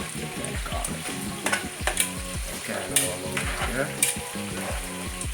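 Quail pieces sizzling in a pan as they braise and are stirred, with a few sharp clicks of the utensil against the pan. Background music with a steady beat runs underneath.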